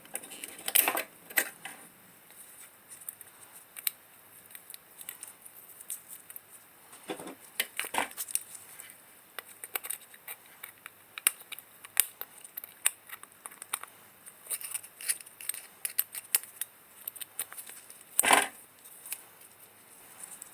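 Irregular light metallic clicks, taps and clinks of an old oil lantern's sheet-metal parts being handled, with a louder knock near the end.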